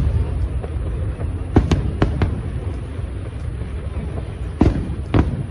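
Aerial fireworks bursting: a quick cluster of four sharp bangs between about one and a half and two and a half seconds in, and two more near the end, over a continuous low rumble.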